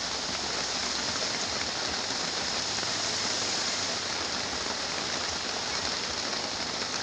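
Heavy rain pouring down in a steady, dense hiss, with a faint low hum underneath during the first few seconds.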